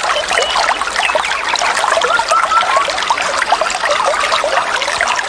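Water trickling and bubbling in a small stream, a steady burble of many small bubbling notes.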